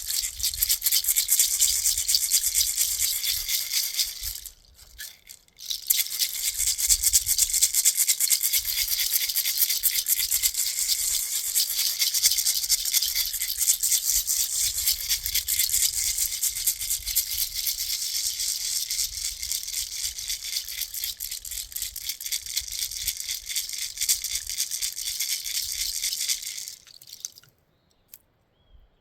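A hand rattle or shaker shaken fast and steadily. It breaks off briefly about four seconds in and stops near the end.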